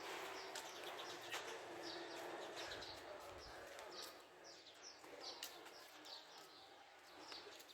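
Faint bird chirps, many short high notes sliding downward and repeated every half second or so, over low outdoor background noise with a few light knocks.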